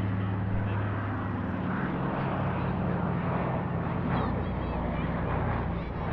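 PBY-5A Catalina flying boat in flight, its twin Pratt & Whitney R-1830 Twin Wasp radial engines and propellers giving a steady, even drone.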